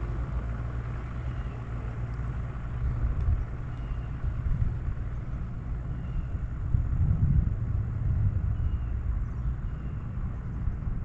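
Wind buffeting the microphone, a low rumble that rises and falls in gusts, strongest about seven seconds in.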